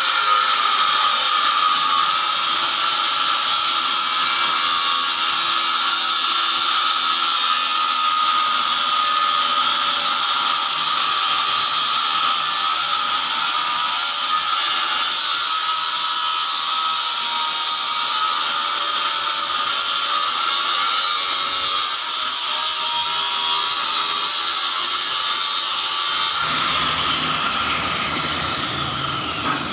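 A high-speed electric power tool runs steadily with a high-pitched whine. About three seconds before the end it is switched off, and the whine falls away as the motor winds down.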